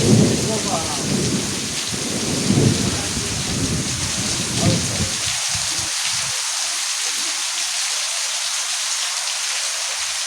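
Heavy monsoon rain falling steadily as a dense hiss, with low rumbles under it through the first half that die away after about six seconds.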